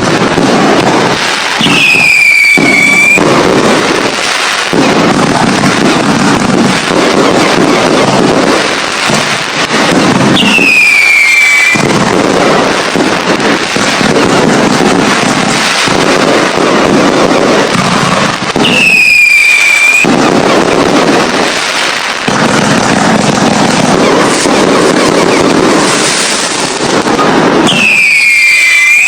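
Fireworks going off in a dense, continuous barrage of bangs and crackling. Four times, roughly every eight to nine seconds, a whistle rises above it, falling in pitch and then holding steady for about a second.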